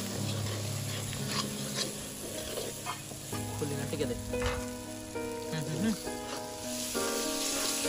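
Spiced goat offal sizzling as it fries in a kadai, stirred with a metal ladle that scrapes and clicks against the pan now and then.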